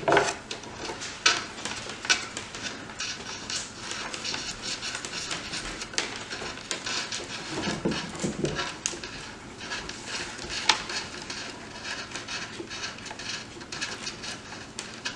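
Lead wire being pushed through an aluminium LED extrusion channel: irregular scraping, rustling and light clicks of wire and metal being handled.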